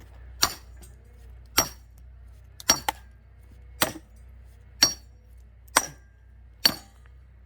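Steel splitting wedges being hammered into a log, about seven sharp ringing metal-on-metal strikes, roughly one a second.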